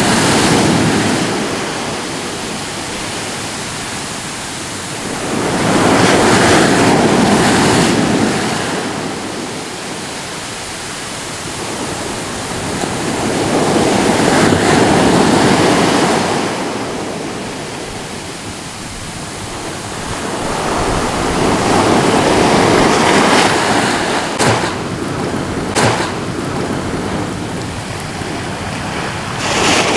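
Ocean waves breaking on a shore in slow surges, each building and washing out over several seconds, with about four swells in the half minute. A few short crisp splashes come near the end.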